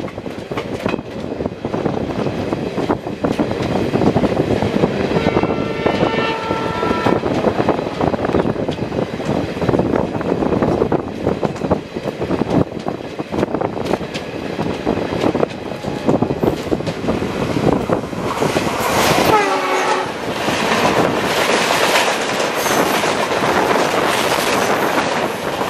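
Indian Railways passenger train running, heard from an open coach doorway: a steady rumble and clickety-clack of the wheels. About six seconds in, a diesel locomotive horn sounds for roughly two seconds. Around twenty seconds in, a horn falls in pitch as the oncoming Shatabdi Express's WDG-3A diesel locomotive passes, and the noise grows brighter as its coaches rush by on the next track.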